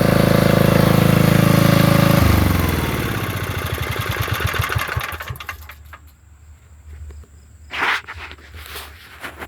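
Portable generator's engine running steadily, then switched off about two seconds in. It winds down over a few seconds with slowing, uneven knocks, jumping around and rattling as it shudders to a stop.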